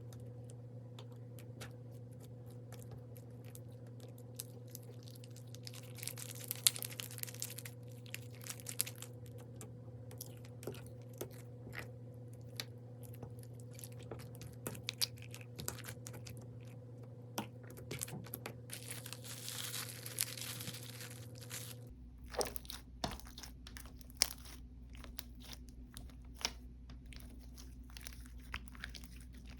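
Slime being squeezed, poked and stretched by hand, giving a dense run of small crunchy clicks and pops. There is a longer crackling stretch about six seconds in and another near twenty seconds. A steady low hum lies underneath and changes about 22 seconds in.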